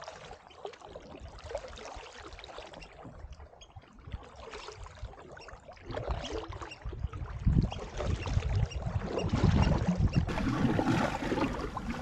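Paddle strokes dipping and splashing in sea water as a sea fishing kayak is paddled along, irregular and getting louder about halfway through.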